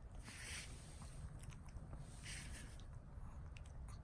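Chihuahua's nose and mouth noises: two short breathy huffs through the nose about two seconds apart, with small wet clicks of licking and smacking in between. Its nose is running after a sneeze.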